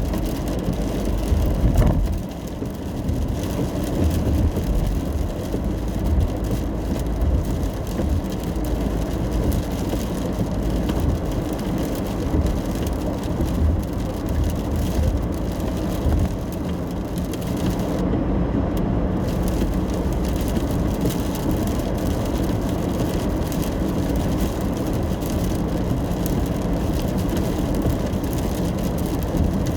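Inside a car driving in the rain: a steady low rumble of tyres and engine, with faint rain. There is one brief knock about two seconds in.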